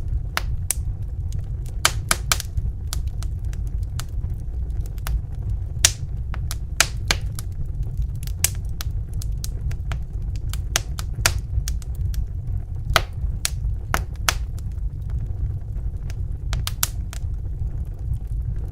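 Wood fire crackling in a fireplace: irregular sharp pops and snaps, a few a second, over a steady low rumble of the burning.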